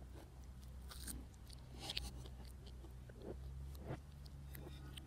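A person biting into and chewing an apple pie close to the microphone: soft crunches and wet mouth clicks at irregular intervals, over a low steady hum. The audio runs in reverse.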